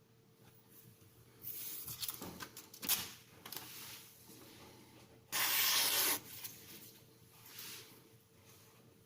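Steel knife blade scraping across a fine Haidu aluminium oxide sharpening stone (FEPA 1500 / JIS 6000) in a few uneven strokes. The loudest and longest comes about five seconds in and lasts about a second.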